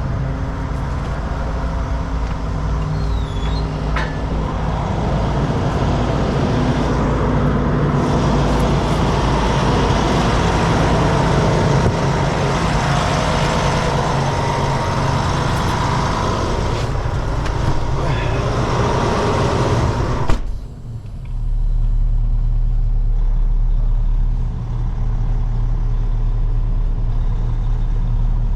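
Heavy diesel truck engines running under load while a wrecker winches a semi stuck in mud. About 20 seconds in, the louder noise stops suddenly, leaving a steady low engine idle.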